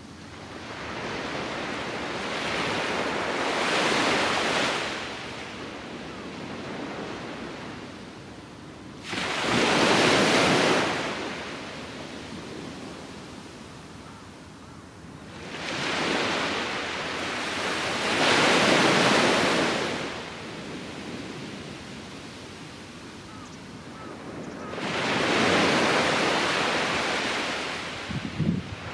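Ocean surf breaking on the beach: four waves rise and wash in, one every six to eight seconds, over a steady hiss. There is some wind buffeting on the microphone near the end.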